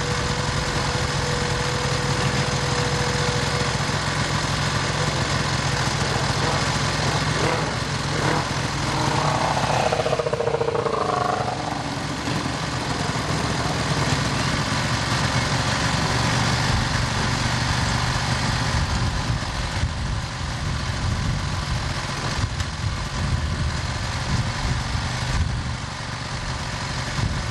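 Racing motorcycle engines running steadily, with a rev that rises and falls about ten seconds in.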